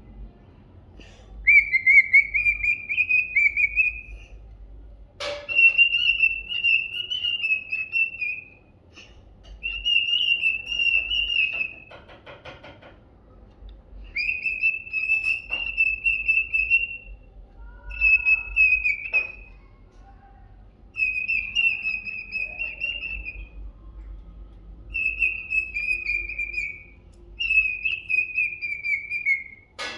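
Male cockatiel whistling its courtship song: a run of warbling whistled phrases, each two to three seconds long, separated by short pauses.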